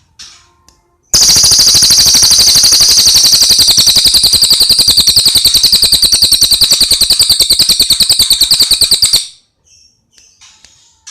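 Cililin songbird giving a long, very loud, rapid rattling trill of about eight seconds that starts abruptly about a second in. Short high chirping phrases come before and after it.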